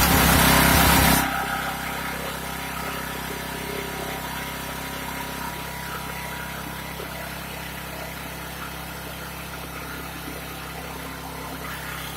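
Hyundai portable generator engine running, loud for about the first second and then settling to a steady, even run.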